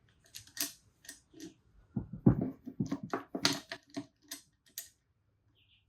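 Small metal parts clicking and knocking as a bolt and cup washer are handled and fitted to hold a chain slider on a swingarm. A few scattered clicks, then a quick run of knocks in the middle, the loudest a little past two seconds in.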